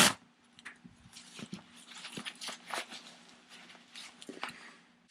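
Motorcycle gloves being handled: a loud rustle at the start, then scattered small rustles, scrapes and clicks of the glove material.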